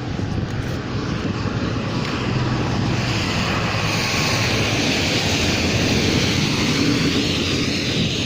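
A steady vehicle rumble with rushing wind noise, growing louder over the first few seconds.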